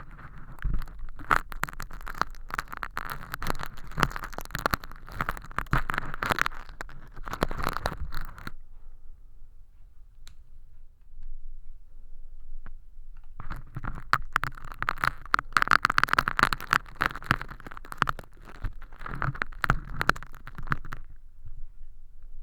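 Crinkly crash-hologram film, standing in for crispy earwax, crackling and scraping as tweezers pick at it and peel it off inside a silicone ear model. It comes in two spells of dense crackling, each about eight seconds long, with a quieter pause between.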